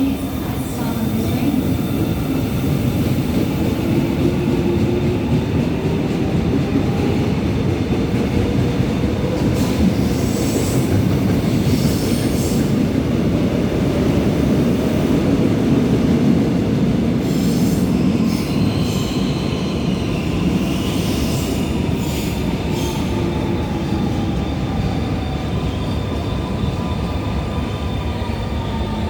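Seoul Subway Line 1 electric train running on the rails: a steady loud rumble with a whine that glides up and down in pitch, and runs of sharp clicks from the wheels partway through.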